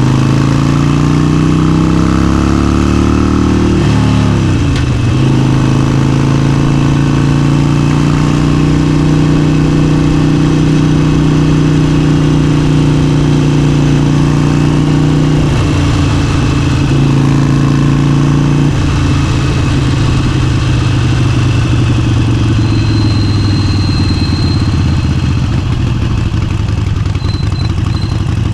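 Motorcycle engine running under way. Its pitch swings through a gear change in the first few seconds, then holds steady at cruising revs, changes again around 16 and 19 seconds, and eases off near the end.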